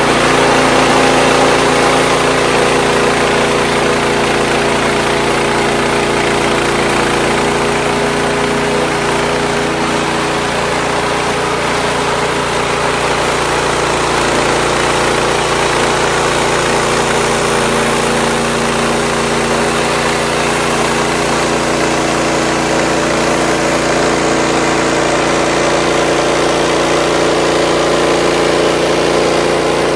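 Wood-Mizer LX55 portable sawmill running, its engine held at a steady speed with a broad even noise over it.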